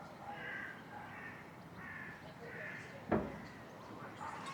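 A crow cawing four times in a row, then a single thump about three seconds in.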